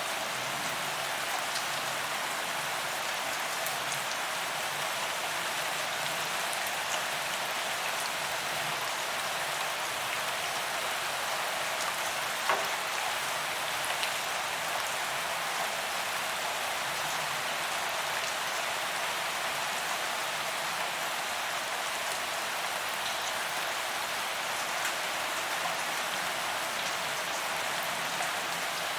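Steady rain falling on a paved promenade, the drops hitting the pavement in an even patter, with a single sharper drop tick about halfway through.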